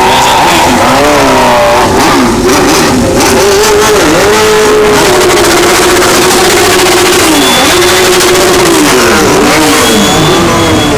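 Motorcycle engine revved hard over and over, very loud. The pitch drops and climbs back several times and is held high and steady for a few seconds in the middle.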